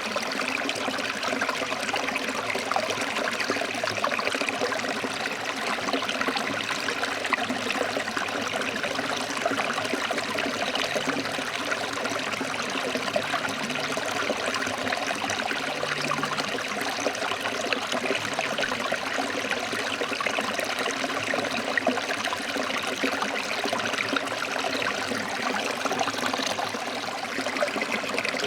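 Water flowing over rocks in a forest stream: a steady, even rush of running water.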